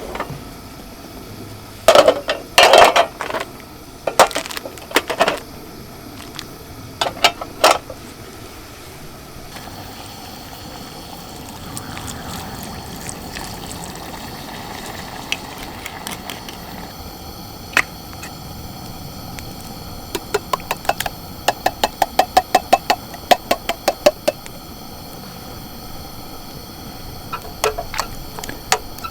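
Camp cooking sounds: clinks and knocks of utensils against cookware in several short clusters, then a run of quick, evenly spaced taps, about three a second, starting about twenty seconds in, over a steady background hiss.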